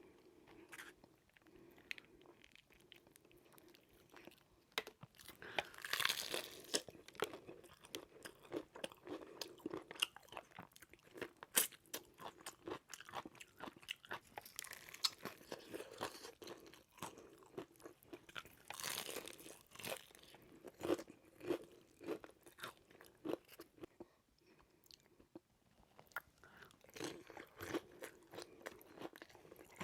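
Close-miked mukbang eating: crunchy fried chicken being bitten and chewed, with irregular loud crunches and softer chewing between them.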